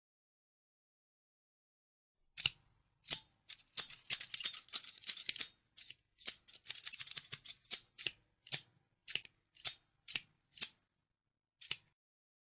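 Scissors snipping, crisp and high-pitched. Silence for the first couple of seconds, then a quick, dense run of snips, easing into single snips about twice a second, with one last snip near the end.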